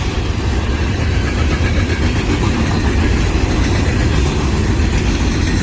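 Freight train passing, a loud, steady rumble.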